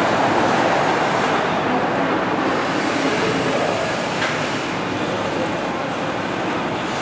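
Steady rolling noise of a moving train.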